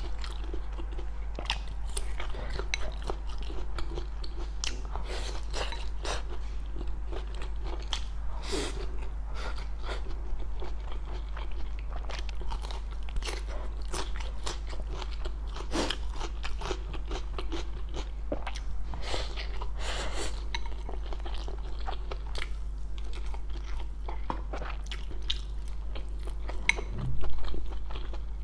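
Close-up chewing and biting of crunchy food from a spicy stir-fried dry pot, a string of irregular crisp crunches over a steady low hum. There is one louder sound about 27 seconds in.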